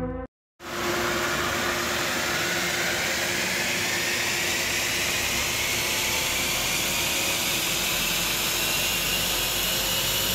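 2020 Ford Explorer ST's twin-turbo V6 at full throttle on an all-wheel-drive chassis dyno, its pitch rising slowly through the run, under a steady loud rush of tyres on rollers and air. It starts about half a second in.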